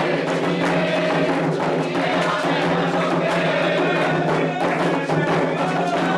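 Candomblé ritual drumming: atabaque hand drums beating a steady, fast rhythm, with voices singing a wavering melodic line over them.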